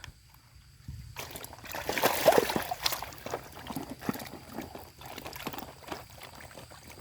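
Water sloshing and splashing with small knocks as a muddy toy is washed by hand. It starts about a second in and is loudest about two seconds in.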